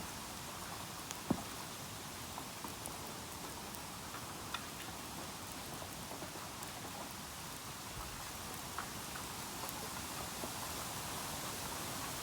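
Bamboo burning in an open bonfire: a steady crackling hiss with scattered sharp pops, the loudest about a second in.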